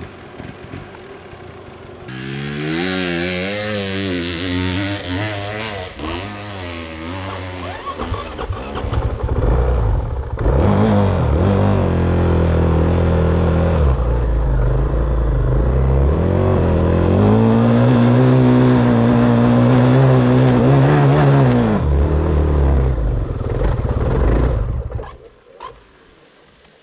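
Dirt bike engine revving up and down in quick swells, then running loud under throttle with slow rises and falls in pitch. It drops away suddenly near the end.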